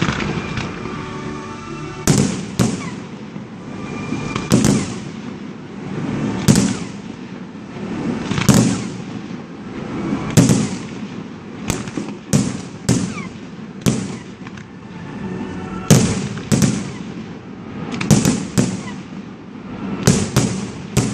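Fireworks display: aerial shells bursting with sharp bangs every second or two from about two seconds in, some in quick pairs, each trailing off briefly.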